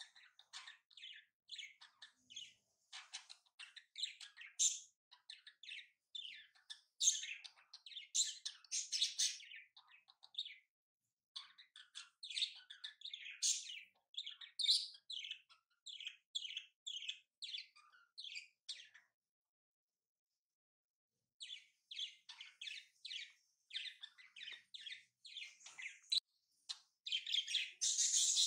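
Small birds chirping in quick runs of short, high calls, with a pause of about two seconds about two-thirds of the way through.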